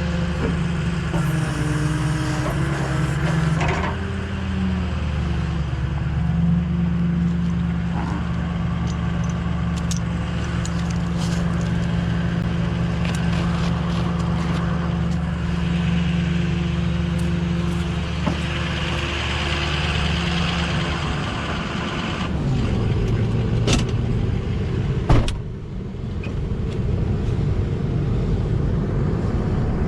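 Truck engine running steadily at idle. About three-quarters of the way through its note changes and turns rougher, and a single sharp knock follows a few seconds later.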